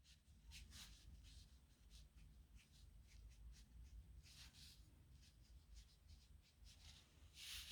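Faint scratching of a nib pen on paper in a series of short, quick strokes, as in writing a signature; the longest and loudest stroke comes near the end. A low steady hum lies underneath.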